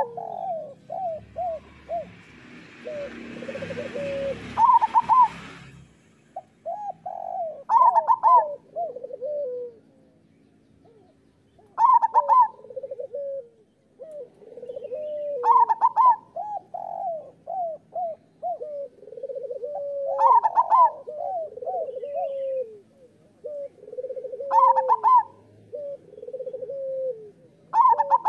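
Zebra dove (perkutut) singing its repeated cooing song: a phrase about every four seconds, each opening with a loud sharp note and running on into a string of lower, rolling coos. A burst of hissing, rumbling noise lies under the song early on.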